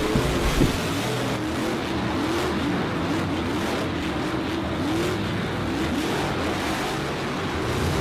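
Race car engine sound effects: engines revving up and down over and over above a steady rushing noise.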